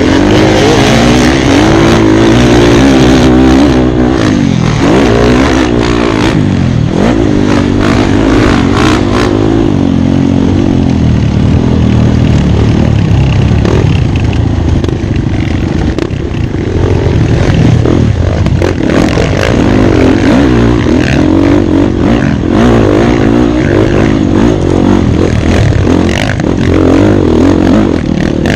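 Off-road motorcycle engine revving up and down again and again as the bike is raced over rough ground, with knocks and rattles mixed in.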